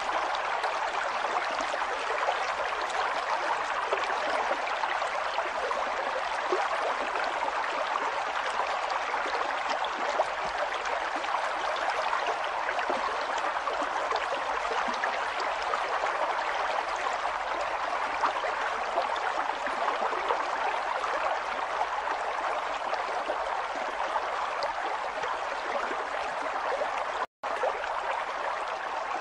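River water running steadily, an even rushing and gurgling sound. It cuts out for a split second near the end.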